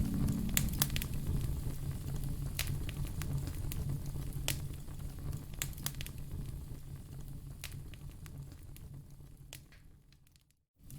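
Wood fire crackling in a fireplace: irregular sharp pops and snaps over a low steady rumble of flames. It fades out near the end into a moment of silence.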